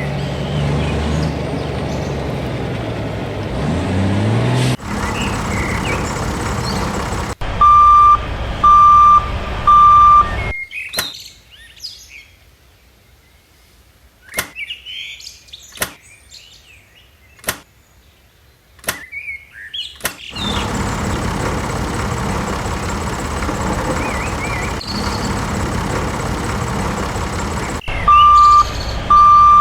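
A vehicle running, its pitch rising about three seconds in, with three short loud beeps at one pitch twice, once about eight seconds in and again near the end. Between them comes a quieter stretch of birds chirping, broken by a few sharp clicks.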